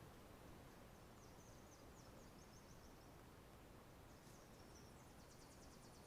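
Near silence: faint background noise with two short runs of distant, high-pitched rapid chirping trills, the first about a second in and the second near the end.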